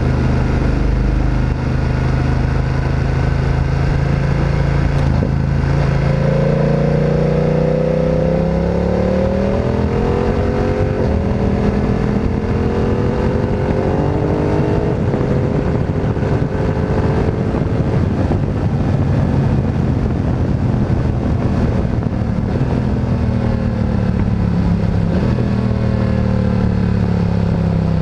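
Motorcycle engine being ridden in traffic. It runs low and steady at first, then about five seconds in it accelerates with a rising engine note through several upshifts. It eases off in the middle and pulls away again near the end.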